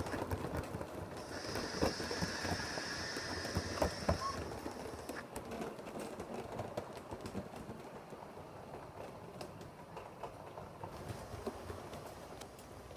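A 7mm-scale model train running on the layout track: irregular clicking of wheels over rail joints, with a steady high motor whine for the first four seconds. The clicking fades gradually as the train draws away.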